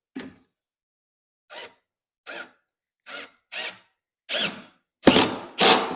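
Hand work on a wooden platform: about eight short knocks and thunks at irregular spacing, growing louder, with the last two loudest near the end.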